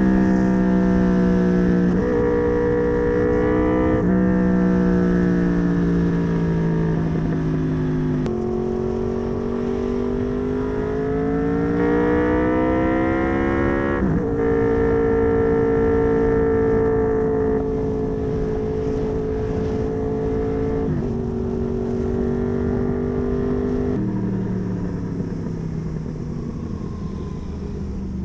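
Honda VFR800 V4 engine with a custom exhaust running under way. Its note holds steady, then sinks, then climbs for a few seconds, with several sudden drops in pitch along the way.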